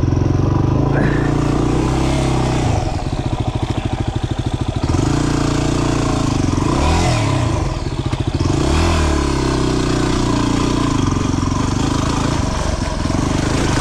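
Single-cylinder 250 cc dual-sport motorcycle engine running on the trail, revved up and back down twice, about seven and nine seconds in.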